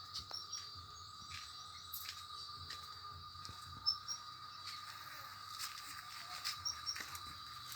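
Steady insect trilling, like crickets, with a few brief high chirps and scattered sharp clicks; the loudest click comes about four seconds in.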